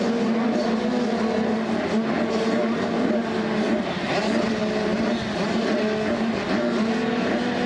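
85cc two-stroke motocross bikes racing, their engines revving up and dropping back as the riders shift through gears, with more than one bike's engine overlapping.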